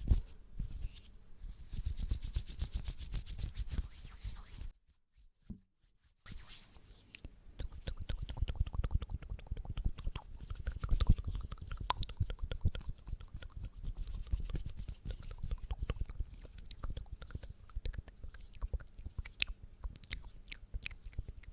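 Close-up ASMR mouth sounds: rapid wet clicks and smacks, with soft low thumps. They stop for about a second and a half around five seconds in.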